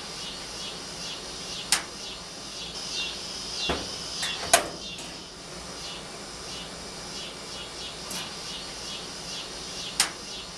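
Insects chirping in a steady, evenly repeated rhythm, broken by several sharp clicks or taps, the loudest about halfway through.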